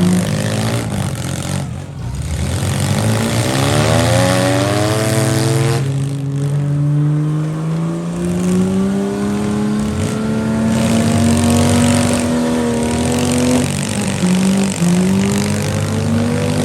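Engines of several stock vans, trucks and SUVs in a demolition derby revving and accelerating, their pitch climbing over several seconds at a time, dropping back and climbing again.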